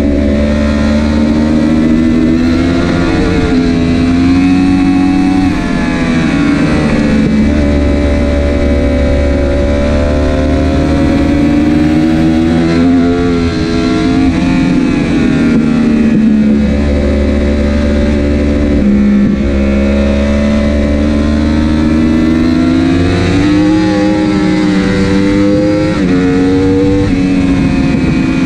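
Superbike engine at race pace heard from onboard, revs climbing and dropping again and again as the rider shifts and brakes for corners. The electronics have failed, so there is no quickshifter or autoblip and the gear changes are made with the clutch.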